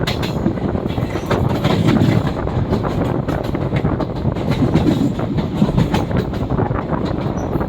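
An express train running through a station at speed: a steady rumble of passing coaches, with wheels clattering over rail joints.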